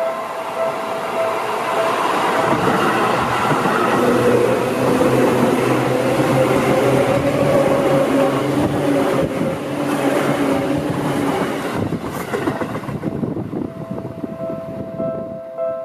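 A commuter train passing slowly over a level crossing: wheel and motor noise with a faint rising whine builds for about ten seconds, then fades. Near the end the crossing's two-tone electronic warning bell comes through, ringing steadily, as the crossing stays closed for the next train.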